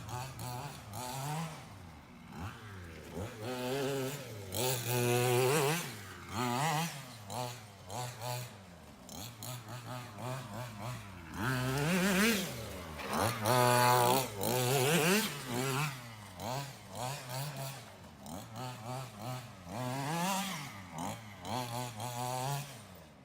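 Small two-stroke petrol engine of an FG large-scale RC monster truck, idling and then revved in repeated bursts, its pitch rising and falling each time; the loudest revs come about a third of the way in and again past the middle.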